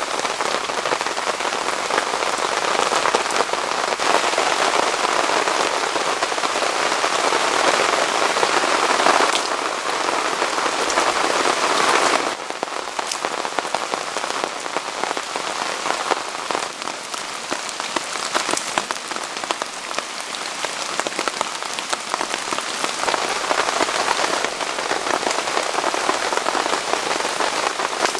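Heavy rain falling steadily, a dense patter of drops. The sound shifts abruptly about a third of the way in and again a few seconds later, then carries on slightly quieter.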